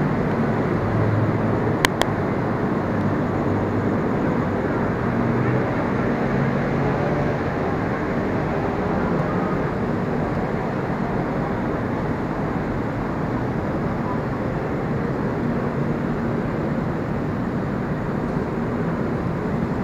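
Steady ambient noise of a railway station platform, with a low hum that swells and fades. Two sharp clicks about two seconds in.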